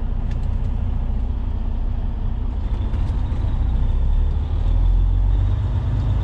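Semi truck's diesel engine running, heard from inside the cab as a steady low rumble that grows louder about four and a half seconds in.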